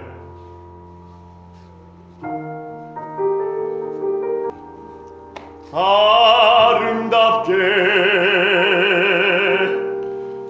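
Piano accompaniment sounding a few held chords, then a man singing a long, full-voiced note in an operatic style with a wide vibrato from about six seconds in.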